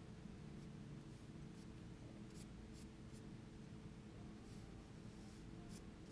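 Faint paintbrush strokes on Arches oil paper: a handful of brief scratchy swishes over a low steady room hum.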